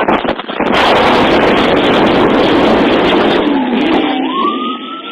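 Loud, rough rushing and rattling vehicle noise with many sharp clicks, then a police car siren rising into a long wail about four seconds in.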